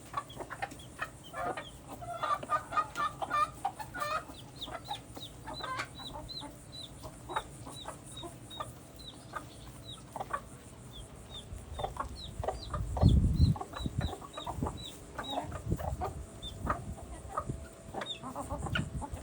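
Chicks peeping in a steady run of short, high, falling notes, with a hen clucking among them. About thirteen seconds in there is a brief low thump, the loudest sound.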